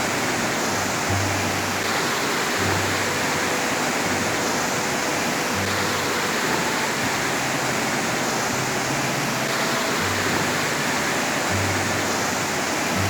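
Steady rushing roar of a waterfall, with low notes of background music coming and going underneath.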